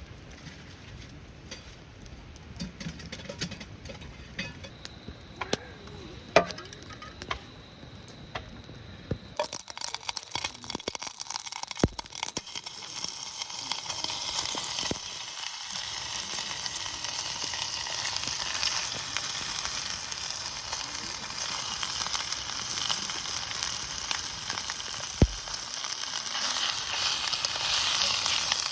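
Food sizzling in hot oil in a pan, starting suddenly about a third of the way in and going on steadily. Before that there are only scattered clicks and knocks.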